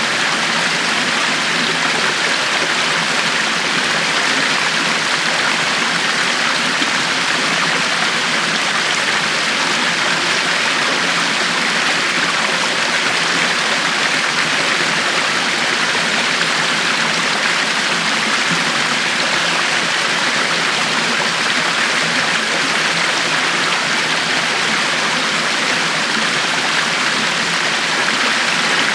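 A river flowing over rocks, a steady rushing and splashing of water with no change in level.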